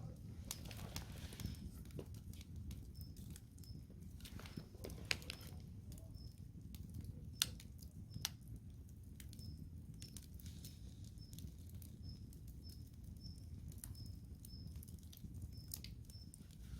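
Firewood campfire burning with a low steady rumble and scattered sharp crackles and pops, the two loudest about five and seven and a half seconds in. A faint high chirp recurs about twice a second through much of it.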